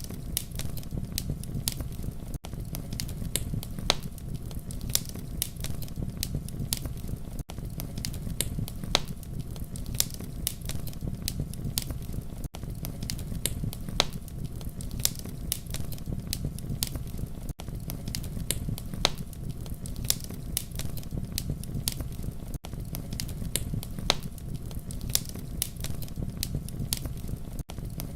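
Wood fire crackling, with frequent sharp pops and snaps over a steady low rumble of flame. The level dips briefly about every five seconds.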